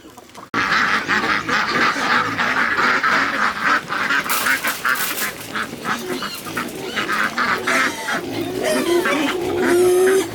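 A flock of farm waterfowl calling loudly and continuously, dense overlapping quacks and honks that start abruptly about half a second in.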